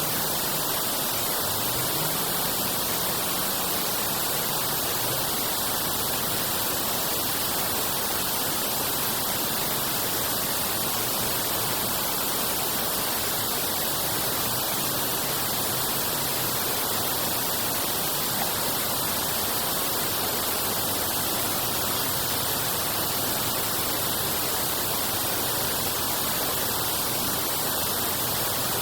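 Water rushing steadily through a drainage channel, a constant hiss with no breaks.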